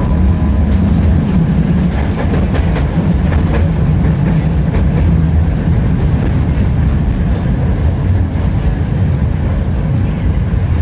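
Tram running along its tracks, heard from inside the passenger car: a steady low rumble with scattered clicks of the wheels over the rails.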